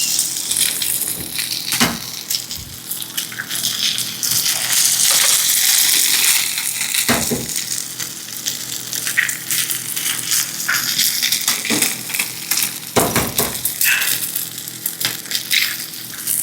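Eggs and sliced hot dogs frying in hot oil in a cazuela, with a steady sizzle and a few sharp knocks against the pan.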